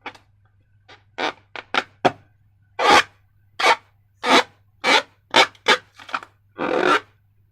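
Slime being squeezed and worked by hand: a quick, irregular run of about a dozen short wet squelches and crackles, over a faint steady low hum.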